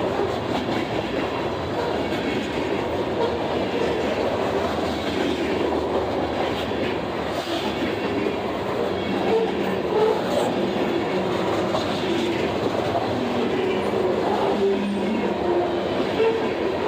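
A train rolling past, with the steady, unbroken noise of its wheels running on the rails.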